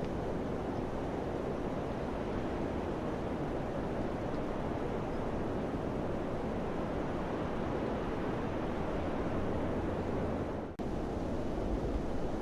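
Steady rushing of summer wind, with a split-second dropout near the end.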